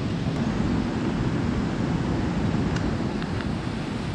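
Steady low rushing of a mountain stream running past the camp, with a few faint small clicks.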